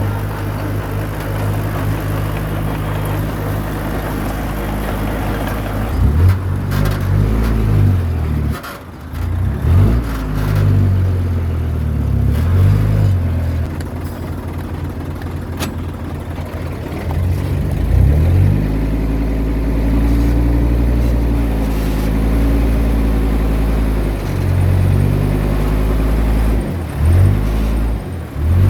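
Small bulldozer's diesel engine running, steady at first and then rising and falling in speed again and again from about six seconds in as the machine works under changing load.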